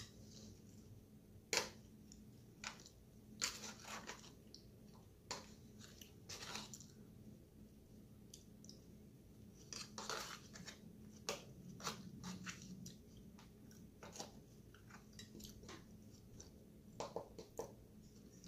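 Close chewing of salad, faint, with irregular crunches and short sharp clicks scattered throughout.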